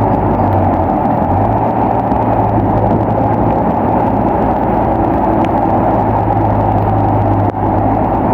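Bulldozer's diesel engine running steadily under load, a constant low drone, with a brief dip near the end.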